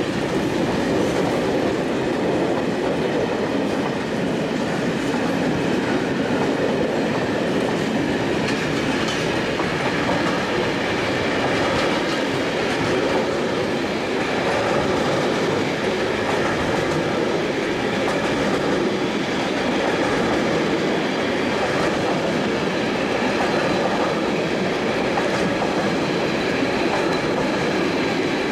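Container flat wagons of a long freight train rolling past at steady speed on the near track: a continuous rumble and rattle of wheels on the rails that holds evenly throughout.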